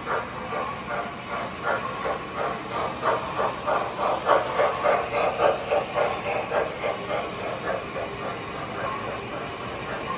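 Model steam locomotives' Proto-2 sound systems chuffing in a steady rhythm of about three beats a second, over the running noise of the O-gauge trains on the track; the chuffing grows loudest around the middle and then eases.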